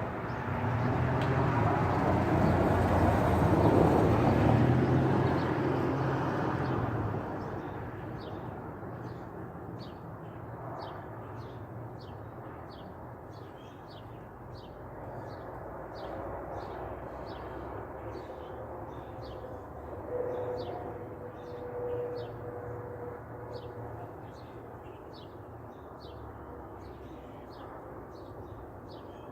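A vehicle passes by, its engine and road noise swelling to a peak about four seconds in and fading away by about seven seconds. A bird then keeps up short high chirps, repeated about one and a half times a second.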